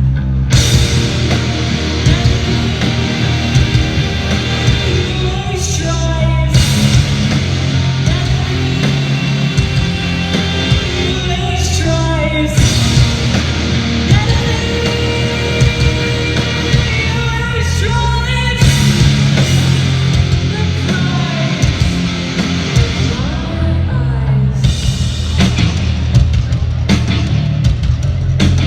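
Live punk rock band playing loud with distorted guitars and drums, a singer's voice coming through at times, recorded from the audience in an arena.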